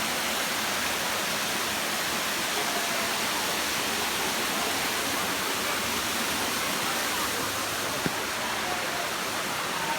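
Steady rushing of water, an even hiss that does not let up, with a single sharp click about eight seconds in.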